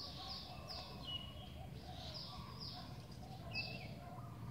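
Birds calling in the background: a run of quick, high notes that each slide downward, repeated irregularly, with a few short whistled chirps between them over a faint low background hum.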